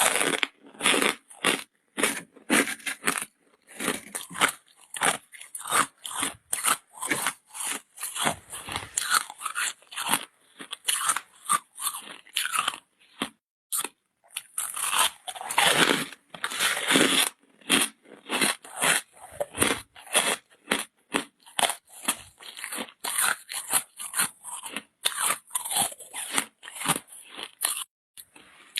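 Ice being bitten and chewed close to the microphone: a fast, irregular run of sharp crunches with short pauses between bites.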